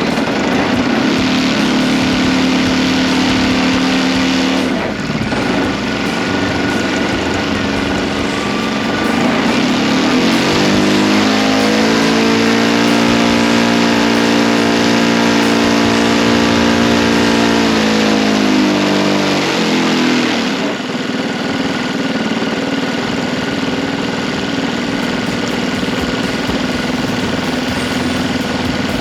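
O.S. GF40 gasoline engine on a model airplane running at low throttle during tuning. About ten seconds in it is opened up to a higher, held pitch, then throttled back just before twenty seconds to a steady low speed.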